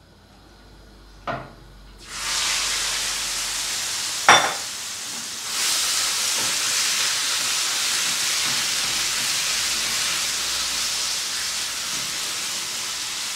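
Marinated chicken strips dropped into hot oil in a nonstick frying pan and sizzling steadily from about two seconds in, the sizzle growing louder a few seconds later as the pieces are spread out. A couple of short knocks sound against the pan, the sharper one about four seconds in.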